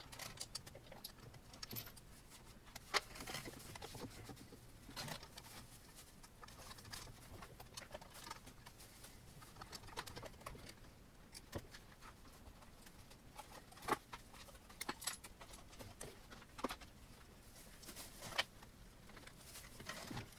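Scattered faint clicks and taps of screws and metal parts being handled and fastened while the display of an Ender 3 Pro 3D printer kit is fitted, spaced irregularly a second or more apart.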